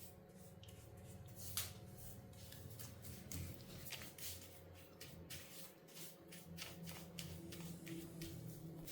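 Faint scattered clicks and rustles of hands handling small objects over a low steady hum, with a slightly louder click about a second and a half in.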